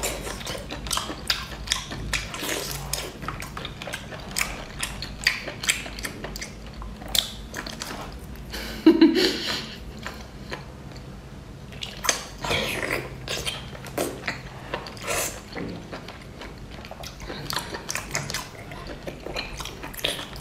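Chewing and biting of braised octopus, a dense, irregular run of short wet clicks and smacks from the mouth, with a brief louder low-pitched sound about nine seconds in.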